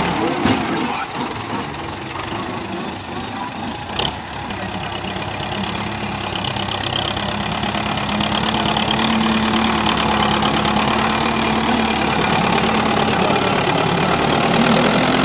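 Tractor diesel engine running steadily, growing louder over several seconds after a sharp knock about four seconds in, then holding at a steady drone.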